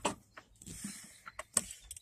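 A few light clicks and knocks, with a soft rustle for about half a second near the middle: handling noises.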